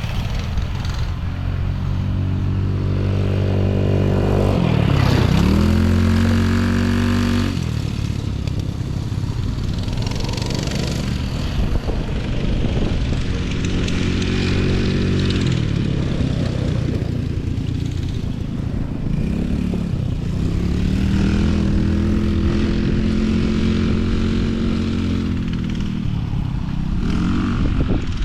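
Off-road vehicle engine revving up and easing off several times, its pitch rising and falling over a steady low rumble.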